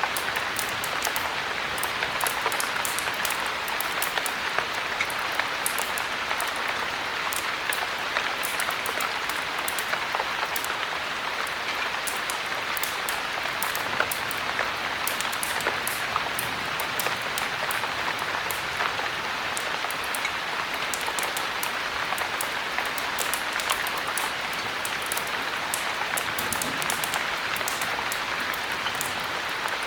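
Heavy rain falling steadily, with many sharp drop ticks scattered through the steady patter.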